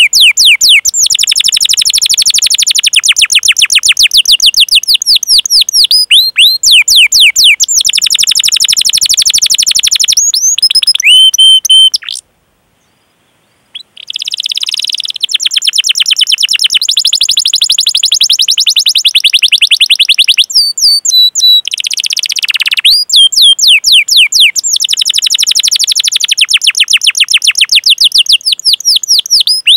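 Canary singing long, rapid rolling trills of high repeated chirps ('cuit cuit' rolls), phrase after phrase. The song stops for about two seconds a little before halfway, then resumes.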